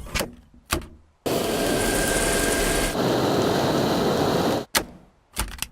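Dyson V6 cordless stick vacuum cleaner's motor starting about a second in, running steadily with a loud whooshing airflow and a faint whine, then cutting off suddenly. A few sharp clicks and knocks of the machine being handled come before and after the run.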